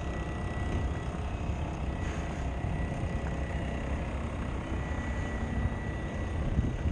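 Cold sea wind buffeting the microphone: a steady low rumble, with a faint steady high tone over it.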